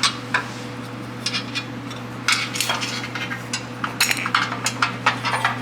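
Irregular light metallic clicks and clinks as an 8 mm bolt is handled and pushed through a quarter-inch aluminum bracket, over a steady low hum.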